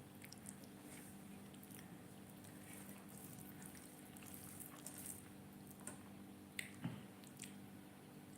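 Near silence: faint steady room hum with a few soft clicks, two slightly louder ones close together near the end.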